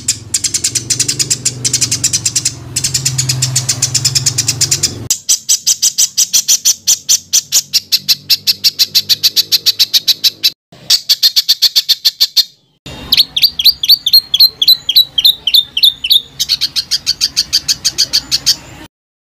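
Songbird song made of rapid, tightly packed, harsh repeated notes, about five or six a second, in several passages separated by sudden brief breaks; it stops shortly before the end.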